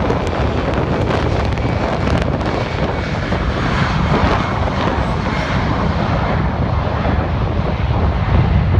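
Embraer E190 jet's turbofan engines at takeoff power, a loud steady roar whose higher hiss thins out over the second half. Wind rumbles on the microphone, strongest near the end.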